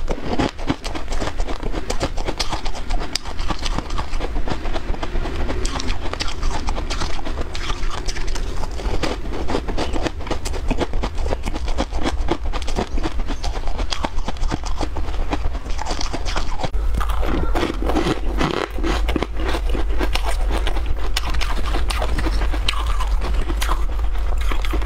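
Close-miked chewing and crunching of bitter-buckwheat snowflake crisp: a steady stream of crisp clicks and crackles as the crumbly pieces are bitten and chewed.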